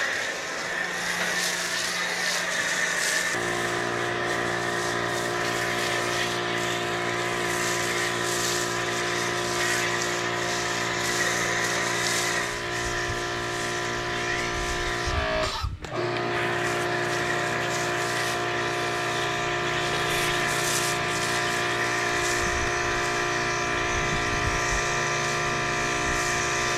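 Pressure washer running steadily, its motor giving a constant tone under the hiss of the water spray. It breaks off for a moment about two-thirds of the way through, then carries on.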